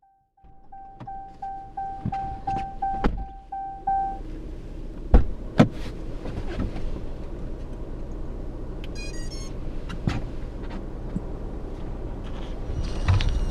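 Strong wind buffeting the microphone, with sharp knocks and thumps of handling. Over it, an electronic beep repeats about three times a second and stops about four seconds in, and a short run of high chirps comes near the middle.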